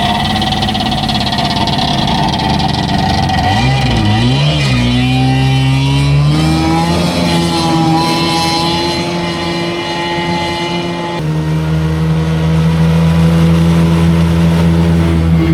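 Homemade boat's engine running under way, its pitch climbing as it speeds up about four to seven seconds in, then holding steady. The sound changes abruptly about eleven seconds in to a steadier, lower drone.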